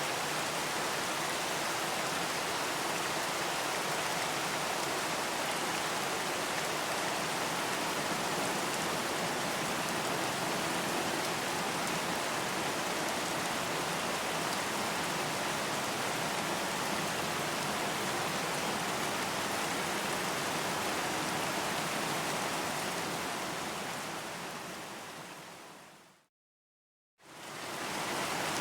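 Steady, even rain hiss. Near the end it fades out to a second of complete silence, then fades back in.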